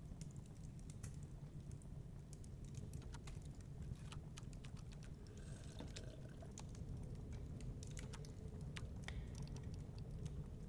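Wood fire crackling in a fireplace: irregular sharp pops and snaps, several close together about halfway through, over a steady low rumble.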